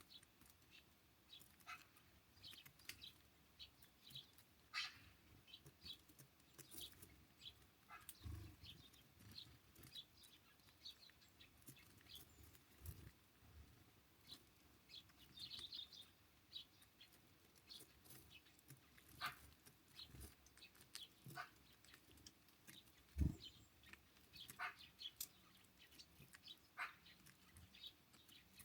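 Small birds at a feeder giving short, scattered chirps and call notes, faint throughout. A few soft low knocks are mixed in, the loudest about 23 seconds in.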